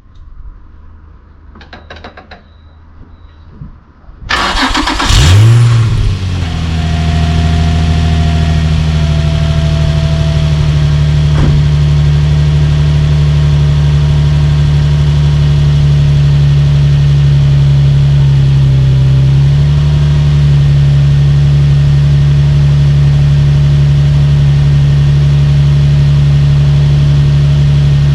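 Infiniti G35's V6 engine starting through an FGK titanium cat-back exhaust: it catches about four seconds in with a brief rev flare, then settles into a steady idle.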